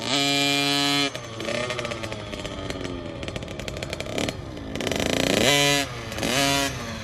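Small dirt bike engine revving hard, held high for about the first second, then dropping and revving up again several times.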